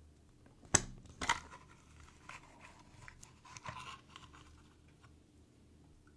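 Hands handling a plastic toy: two sharp clicks about half a second apart, then light scratching, rustling and small taps that die away.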